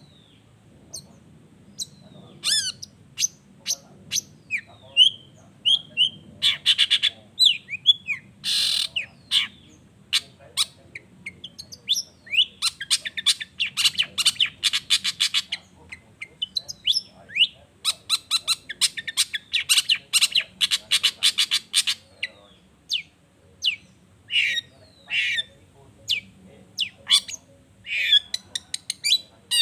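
Long-tailed shrike (cendet) singing a fast, varied song of sharp clicks and short whistled slurs, broken by long harsh rapid-fire chattering runs: one short run about six seconds in, then two longer runs of several seconds each in the middle.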